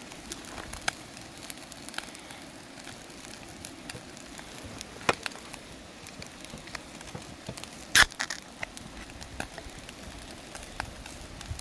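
Wood campfire crackling, with many small scattered pops and two louder sharp cracks, about five and about eight seconds in.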